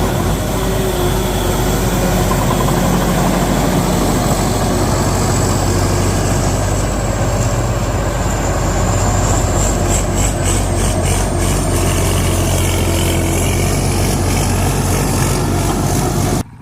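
Tractor engine running steadily, with a thin high whine that rises slightly around the middle and a spell of rattling clicks. It cuts off abruptly near the end.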